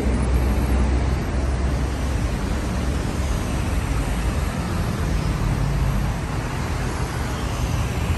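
Steady vehicle or traffic noise: a constant low rumble with an even hiss over it, with no distinct events.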